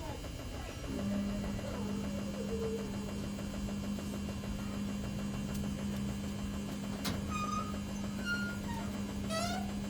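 Samsung EcoBubble washing machine running on its spin cycle: a steady motor hum that comes back in about a second in. A few short high chirps and a couple of sharp clicks come in the last three seconds.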